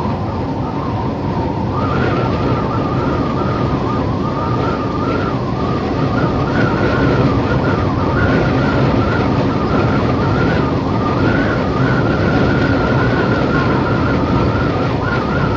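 Desert wind howling, a steady rush with a wavering whistle above it that comes in about two seconds in and swells gradually louder.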